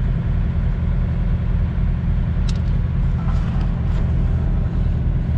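Semi tractor's diesel engine idling steadily, a low even rumble, with a couple of light clicks about halfway through.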